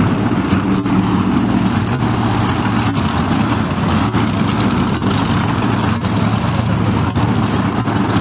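Heavy vehicle engine idling steadily, holding an even pitch.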